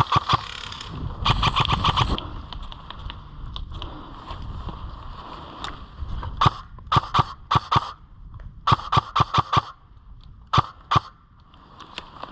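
Airsoft guns firing in several short full-auto bursts of rapid clicking shots, with scattered single shots between them.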